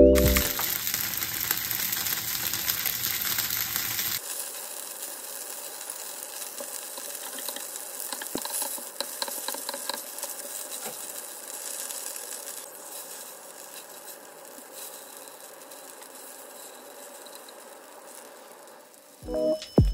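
Slices of savoury cake sizzling in oil in a non-stick frying pan. The sizzle is loudest for the first four seconds, then, after a cut, continues as a quieter steady sizzle with a few light taps of chopsticks and a wooden spatula against the pan.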